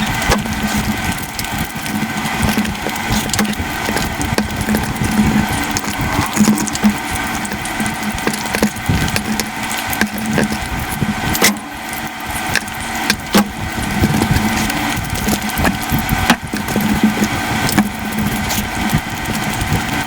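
Close-miked ASMR eating sounds sped up five times: chewing and mouth sounds run together into a dense, continuous crackle of rapid clicks.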